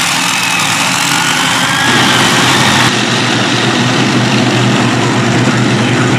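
Modified pulling tractor's engines running loud, with a thin whine above the engine sound; it gets louder and heavier about two seconds in.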